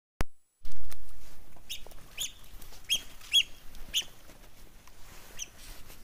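A click and then a thump in the first second, followed by a bird giving about six short, sharp, high calls a half-second to a second apart, over a low wind rumble.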